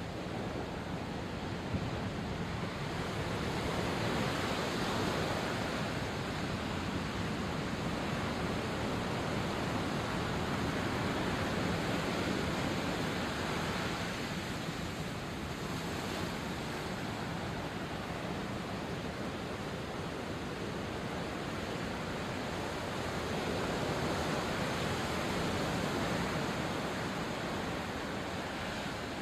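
Sea surf washing onto the shore: a continuous rush of water that swells and eases every several seconds as the waves come in.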